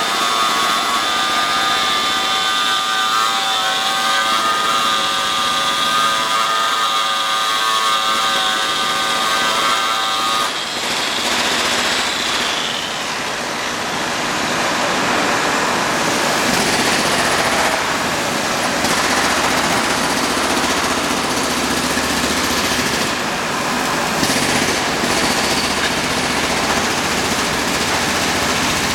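Induction hardening machine at work: a steady multi-tone whine for about the first ten seconds, then a loud, even noisy rush with a lingering high tone that fades out a couple of seconds later.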